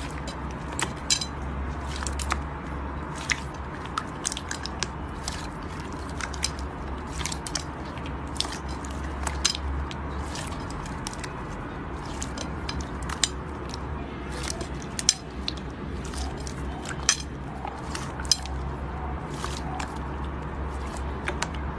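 Slime being pressed and squished by hand, giving irregular sharp crackles and pops, several a second, over a steady low hum.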